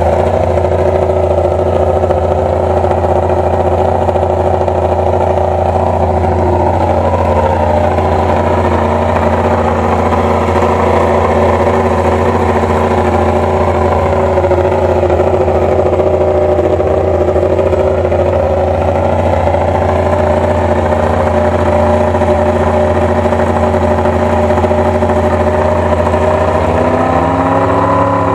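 Yamaha YZR-M1 MotoGP race bike's inline-four engine running steadily at a held speed. Its pitch dips slightly around the middle and climbs again near the end.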